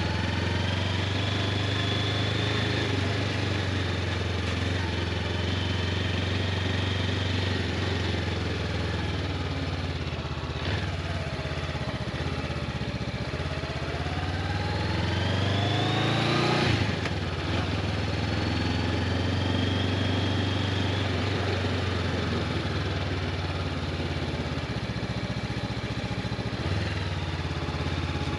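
Honda CB500X motorcycle's parallel-twin engine running steadily, with its pitch rising briefly and then dropping sharply about two-thirds of the way through, like a rev followed by a gear change.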